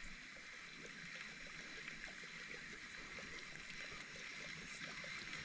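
Faint, steady sound of flowing river water, with a few light clicks.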